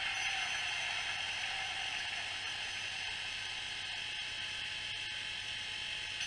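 Diesel locomotive engine shut-down sound played by a Howes DCC sound decoder in an OO-scale Heljan Kestrel model, through its small 23 mm speaker. It is a steady mechanical whir that slowly winds down, its pitch sinking slightly and its level easing off.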